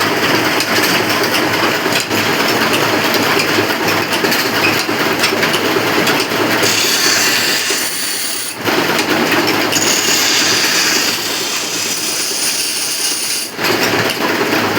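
Engine-driven workshop machinery running with a loud, continuous clatter of metal, dipping briefly twice in the second half.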